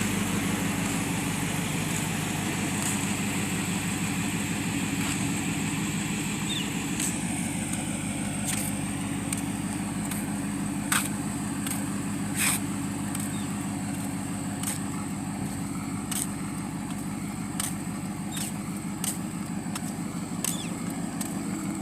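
2019 Dodge Charger Daytona's HEMI V8 idling steadily through a muffler-deleted exhaust.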